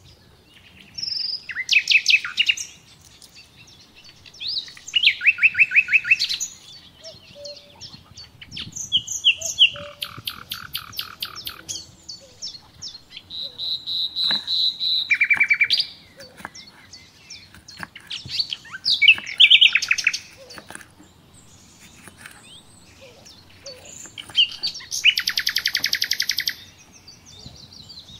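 Songbird singing: loud phrases of quick repeated high notes and trills, each one to three seconds long, coming back every few seconds.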